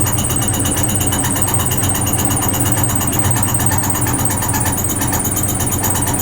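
Vintage Frigidaire Super Deluxe Automatic 50 front-loading washing machine running under its motor. It makes a loud, steady mechanical noise with a low hum and a fast regular pulsing from the turning drum.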